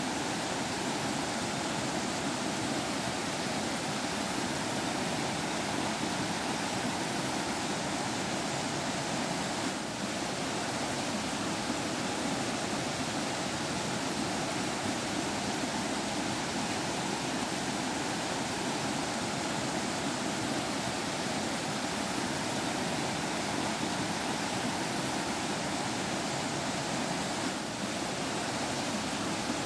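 Forest stream water flowing and trickling, a steady, unbroken rush.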